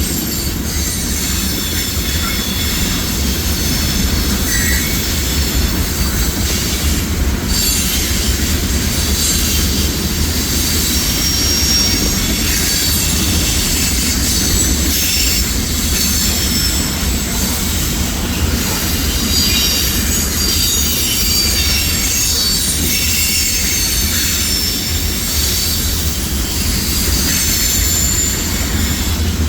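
Freight grain train of covered hopper cars rolling past: steady low rumble of steel wheels on rail, with a continuous high, wavering squeal from the wheels.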